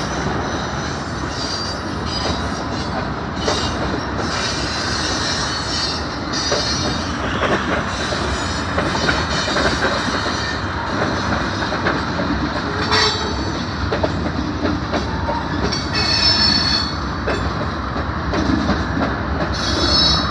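Freight cars rolling slowly past on the rails: a steady rumble of steel wheels, with repeated short high-pitched wheel squeals, the strongest about 16 seconds in, and an occasional clank.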